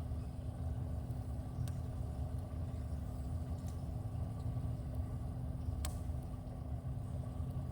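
Steady low hum of a boat's motor, with a few short clicks, the sharpest about six seconds in.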